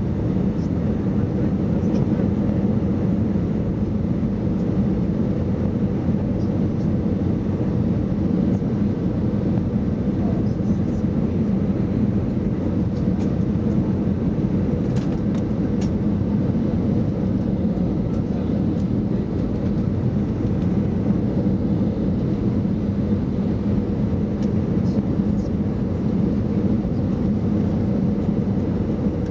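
Airbus A320 jet airliner on its landing approach: a steady, even drone of engines and airflow with a faint steady hum, and no sudden changes.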